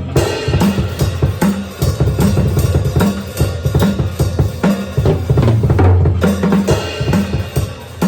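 Drum kit played fast and dense, with many strokes a second, along with a pirate-metal song's recorded backing track.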